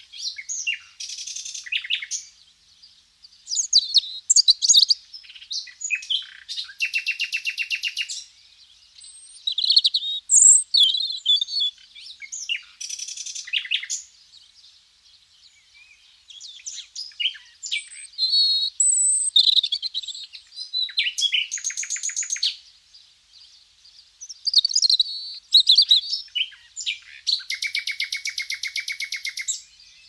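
Several wild birds singing and calling in turn: high chirps and whistled phrases, with a rapid trill of a second or two recurring about four times.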